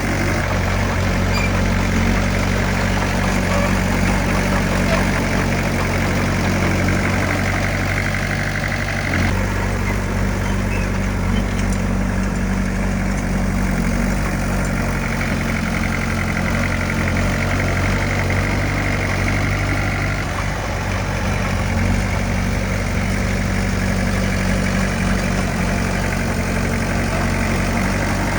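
Diesel engine of heavy earthmoving equipment running steadily, with a change in its tone about nine seconds in.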